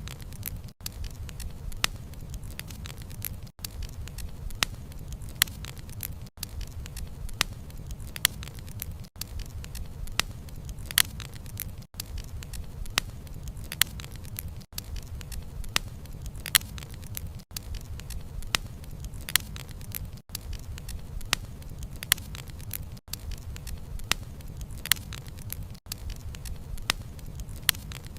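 Wood bonfire crackling, with sharp irregular pops over a steady low rumble. The sound drops out briefly about every three seconds.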